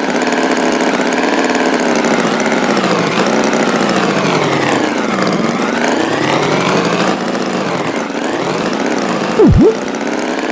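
Tractor engine running steadily, its pitch slowly wavering up and down. Near the end, a quick cartoon sound effect sweeps down in pitch and straight back up.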